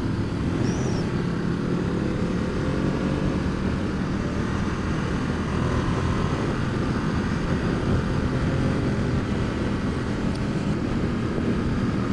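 A Ducati XDiavel's 1262 cc Testastretta DVT L-twin engine running at a steady road speed under a constant rush of wind and road noise, heard from the rider's position.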